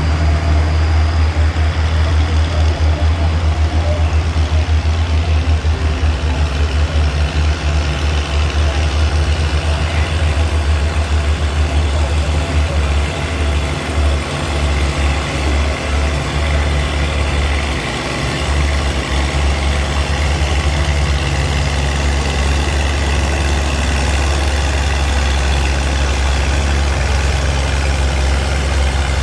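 Antique tractor engine running with a low, steady throb.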